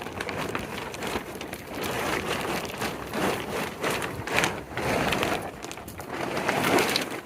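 Plastic tarp rustling and crinkling in uneven swells as it is pulled and handled.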